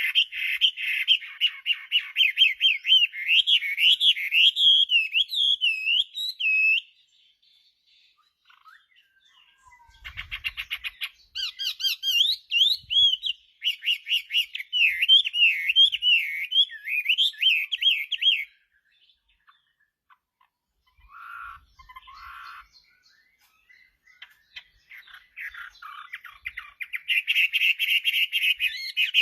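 Chinese hwamei (melodious laughingthrush) singing: long phrases of rapid, gliding whistled notes, three long runs broken by pauses of a few seconds and one short call between them.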